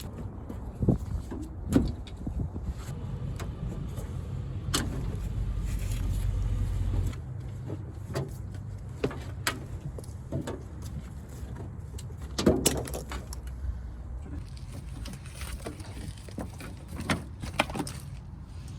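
Scattered clicks, knocks and rattles of hands working in a pickup's cab, pulling back the carpet and drawing a wiring harness out through the floor, over a low steady rumble that swells a few seconds in.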